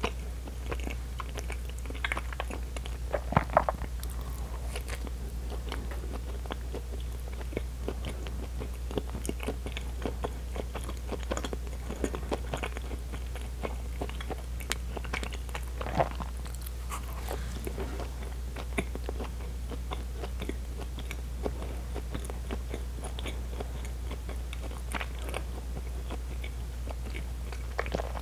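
Close-miked chewing of soft bread, with many small wet mouth clicks and a few louder ones, over a steady low hum.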